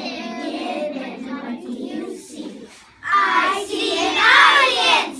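Group of children chanting together, louder in the second half.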